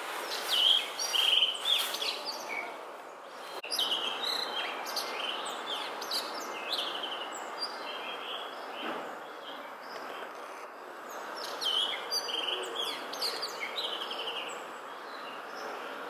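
Blue rock thrush singing: bursts of quick, varied warbled phrases, with a pause of a few seconds near the middle, over a steady background hiss.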